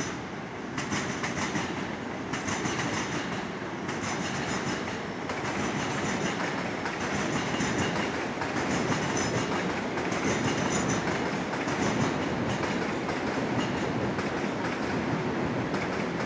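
Electric commuter train running along the tracks: a steady rumble of wheels on rail, with a clatter coming back every second or two.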